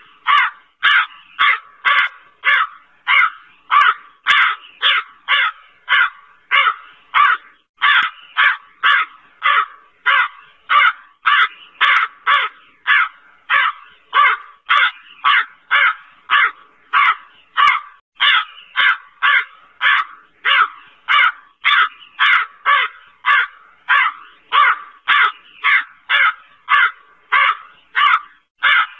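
Crow cawing over and over in a fast, even series, about two caws a second without a break.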